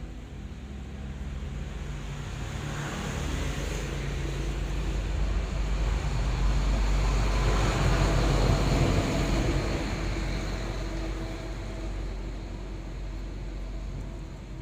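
Low engine rumble of a passing road vehicle, growing louder to a peak about halfway through and then fading away.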